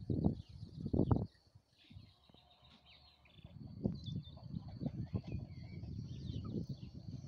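Small birds chirping faintly, over irregular low rumbles and thuds that are loudest in the first second, drop away, and pick up again after about three and a half seconds.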